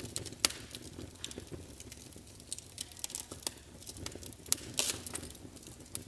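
Wood fire burning in a fireplace: irregular sharp crackles and pops over a low, steady rumble of the flames, with the loudest snaps about half a second in and a cluster near the end.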